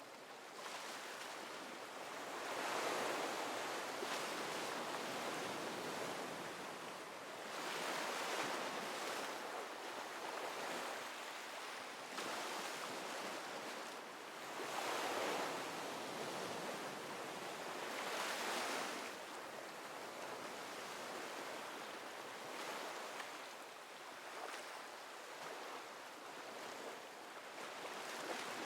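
Ocean waves washing onto a shore, a steady hiss that swells every few seconds as each wave breaks and runs up, with the strongest surges about 3, 8, 15 and 18 seconds in.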